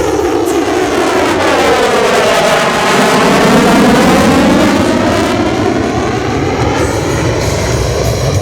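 F-35B Lightning II fighter jet making a pass, its engine noise swelling to a peak about four seconds in and then easing off, with the shifting, sweeping tone of a jet going by.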